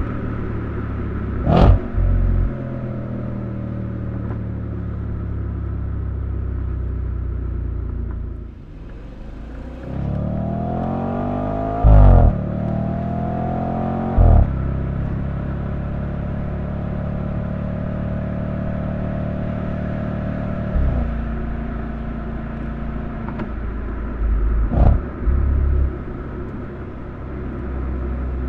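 Audi RS5's 4.2-litre V8 heard from outside the car while driving. The engine note falls off slowly at first, then climbs steeply twice as the car accelerates through the gears about ten seconds in, then holds steady at cruise. A few short, sharp bangs stand out above the engine along the way.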